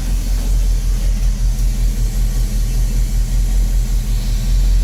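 Chevy C10 pickup's engine idling steadily through its Flowmaster mufflers, warming up shortly after a cold start, with a low, evenly pulsing exhaust rumble.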